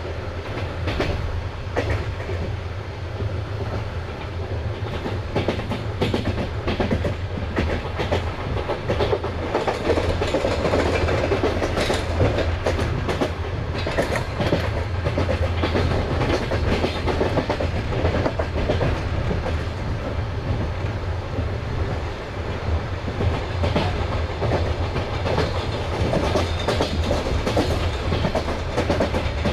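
A passenger coach running along the track: a steady rumble from the running gear, with the wheels' clickety-clack of many irregular clicks over rail joints.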